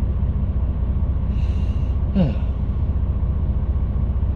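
Steady low drone of an HGV lorry's diesel engine heard from inside the cab. About a second and a half in comes a short in-breath, then a brief falling vocal sigh.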